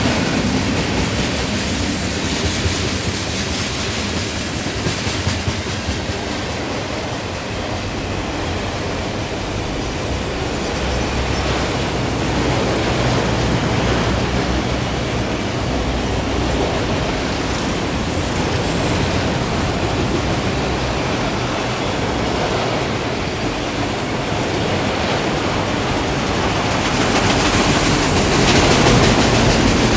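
Freight train cars rolling past at close range: a steady rumble and rattle of wheels on the rails, with the clack of wheels over the rail joints, growing a little louder near the end.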